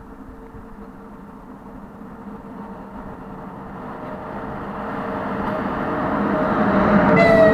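A Sinara (2ES6) electric freight locomotive hauling a freight train approaches, its rumble and steady motor and fan hum growing louder throughout. Near the end, a higher steady tone sets in over it.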